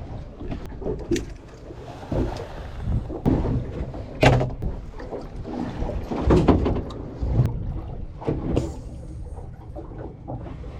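Wind and water noise aboard a small fishing boat, with irregular knocks and clunks, the loudest about four seconds in.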